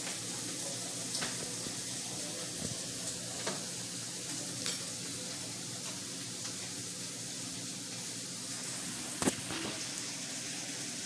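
Food frying in a pan: a steady sizzle with a few sharp pops, the loudest about nine seconds in.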